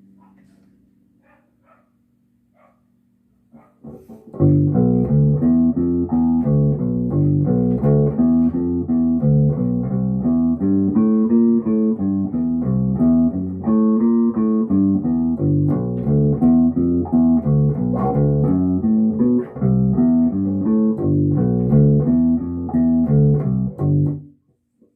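Electric bass guitar played through an Ampeg BA-110 bass combo amp: a few soft plucks, then about four seconds in a busy run of fast plucked notes that stops abruptly near the end.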